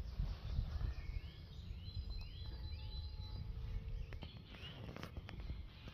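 A songbird singing a quick run of about five repeated arched notes about a second in, over a low steady rumble. A few faint clicks later on.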